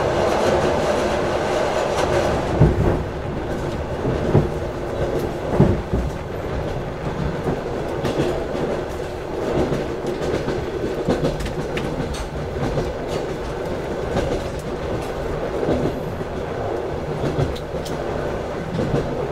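Passenger train carriage rolling along the track, heard at an open window: steady rumbling wheel noise with irregular clickety-clack knocks as the wheels cross rail joints, the sharpest knocks in the first few seconds.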